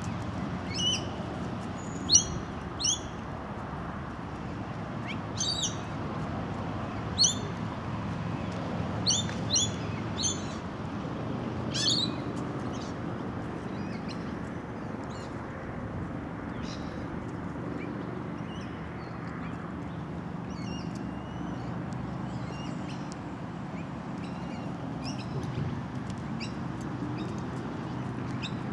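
Birds calling: short, sharp, high chirps repeated in quick clusters, most frequent and loudest in the first dozen seconds, then fainter and scattered, over a steady outdoor hiss.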